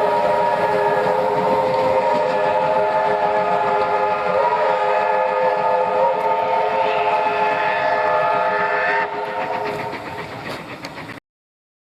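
Steam locomotive whistle blowing one long, steady, chord-like note, stopping about nine seconds in. Quieter train noise continues briefly, then the sound cuts off abruptly.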